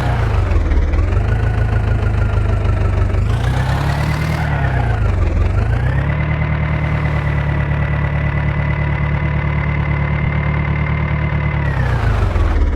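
John Deere 5055 tractor's diesel engine being revved: two short rises in engine speed that fall back, then a climb to high revs held steady for about six seconds, dropping back toward idle near the end.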